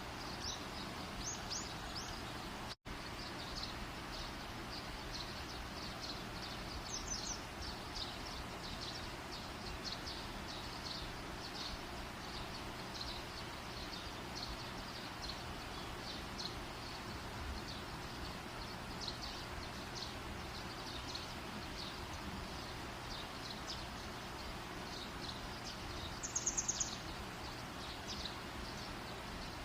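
Campfire burning: a steady hiss with many light, quick crackles, against outdoor chirping. A louder run of high chirps comes about 26 seconds in, and the sound cuts out for an instant about three seconds in.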